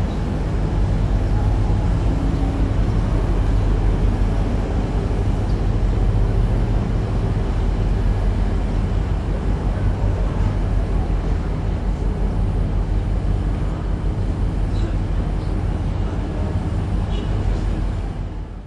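Boat engine running with a steady low drone and water and wind noise over it, fading out at the very end.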